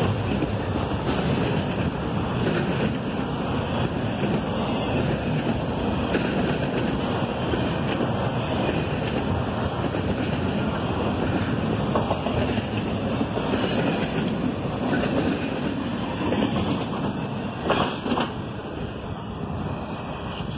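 Double-stack intermodal container cars rolling past: a steady rumble of steel wheels on rail with occasional clanks, easing off near the end as the tail of the train goes by.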